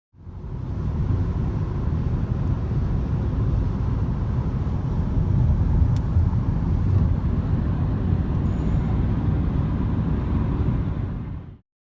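Steady low rumble of a ride inside an aerial tramway car, with a faint hum over it. It fades in at the start and fades out near the end.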